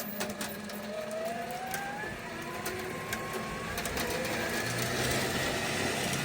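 Heavy truck engine running under load, with a thin whine that slowly climbs in pitch over the first few seconds and a few sharp clicks.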